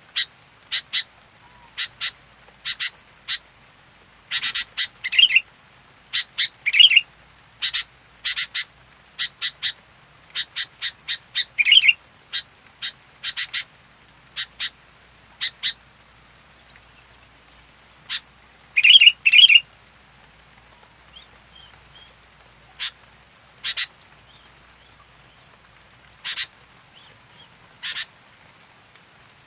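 Sooty-headed bulbul (kutilang) calling: short, sharp chattering notes in quick series, some with a fast slurred drop in pitch. They come thickly for the first half, then thin out to a few single notes spaced a second or more apart.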